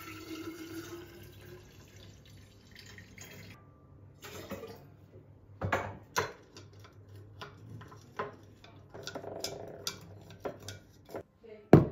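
Water running from a tap for about three seconds, then a string of clinks and knocks as a drink is put together, with a sharp loud knock near the end.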